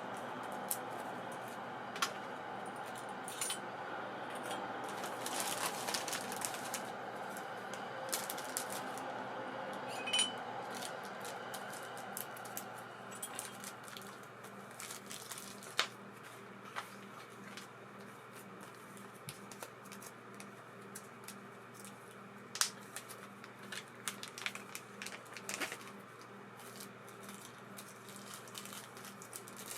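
Spool of an ABU Ambassadeur 2500C baitcasting reel spinning freely with a steady whirr, run with minimal oil for the least resistance, fading away about halfway through. Small metallic clicks and taps of the reel being handled are heard throughout.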